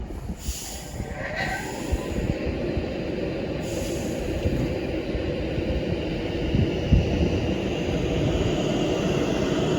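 Electric train running through the station: a steady rumble of wheels on rail that grows gradually louder, with a brief faint rising squeal about a second in.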